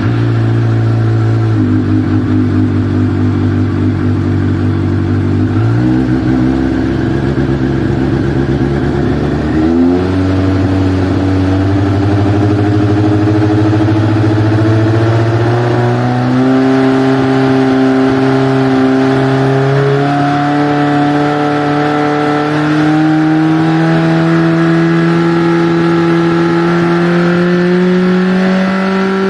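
Motorcycle engine running and being revved up in steps, each higher engine speed held for a few seconds, so the pitch climbs slowly from a low idle to about twice as high.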